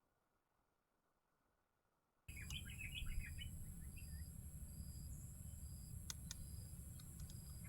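About two seconds of silence, then outdoor ambience: small birds chirping in a quick flurry, over a steady high-pitched insect drone, with a few faint clicks later on.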